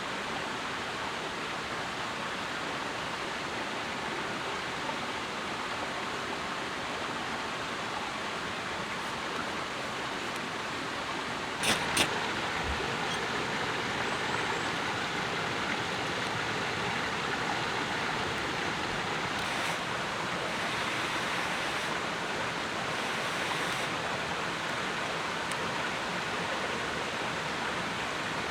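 Steady rushing outdoor noise, with two sharp clicks close together a little before halfway.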